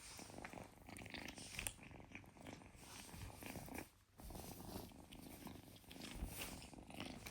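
Kitten purring faintly, with a brief break about four seconds in.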